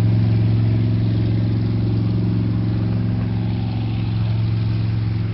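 Monster truck engine running steadily at an even, held pitch while the truck drives across the water.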